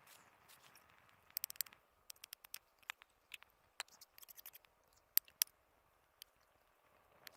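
Irregular sharp clicks and ticks over a faint hiss: a quick cluster about a second and a half in, then scattered single snaps, the loudest two a little past five seconds.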